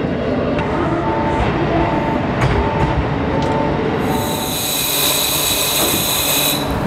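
JR Hokkaido 711 series AC electric train running through a station with a steady rumble of wheels on rail, and a short tone repeating about twice a second. About four seconds in, a high-pitched wheel squeal starts and lasts over two seconds, then cuts off suddenly.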